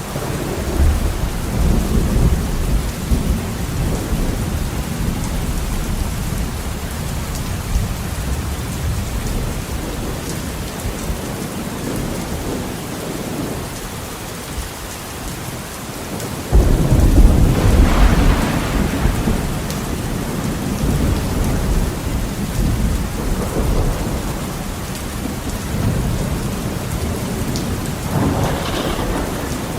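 Heavy rain beating steadily on a window, with thunder rolling through: a low rumble near the start, a sudden loud crack of thunder a little past halfway that rumbles on for a few seconds, and a softer roll near the end.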